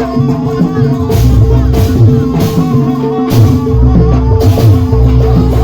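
Javanese jaranan accompaniment music played loudly, with steady ringing tones, deep low beats and a quick recurring percussion stroke.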